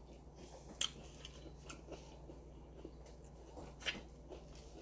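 Person chewing a crunchy taco, with faint crunches and mouth clicks. A sharper crunch comes a little under a second in, and another near four seconds as a fresh bite is taken.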